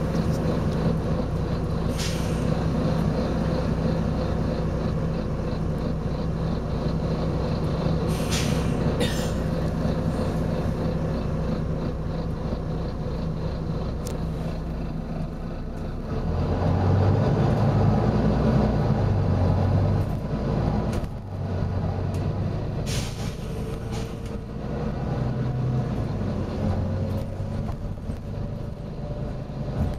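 Volvo B9TL double-decker bus's diesel engine running, its note turning louder and lower and pulsing about halfway through. Four short hisses of compressed air are released over it, one near the start, two in quick succession about a third of the way in, and one in the later part.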